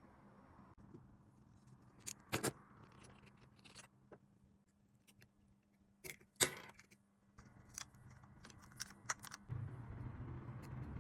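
Small metal watch parts and tools clicking and tapping, with light scraping between a few sharp clicks. A low hum comes up near the end.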